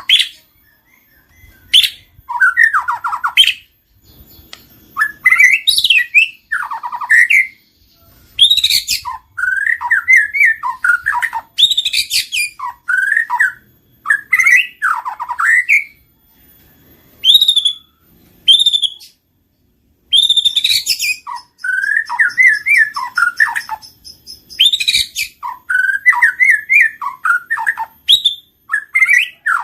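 White-rumped shama (murai batu) singing: a run of short, varied phrases of quick trills and sharp whistled notes, with brief pauses between them.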